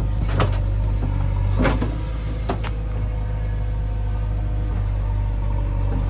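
Heavy diesel engine of earth-moving machinery running steadily with a deep drone, with three sharp knocks in the first half.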